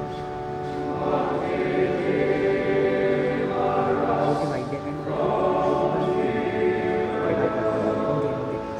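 A choir singing in long held phrases with many voices together, a sung item in a chapel service.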